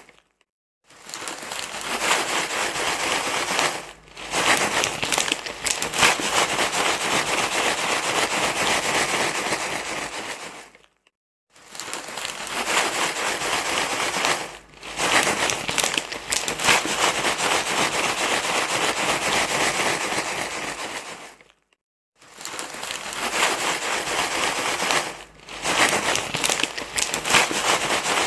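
Steady crinkling and rustling, like something being crumpled and handled, running in stretches of about ten seconds broken by short silences, as a repeating loop.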